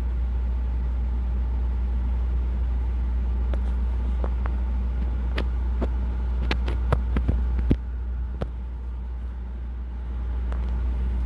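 Vehicle engine idling, a steady low rumble heard from inside the cabin. It drops quieter at about eight seconds in and comes back up near the end, with a few sharp light clicks in the middle.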